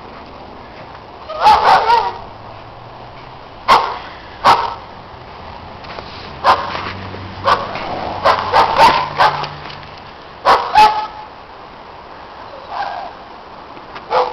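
Dogs barking loudly in short, sharp barks, some singly and some in quick runs of three or four, with pauses of a second or two between them.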